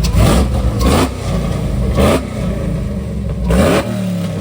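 Car engine idling with a low rumble and blipped four times in quick revs, each rising sharply in pitch with a rush of air.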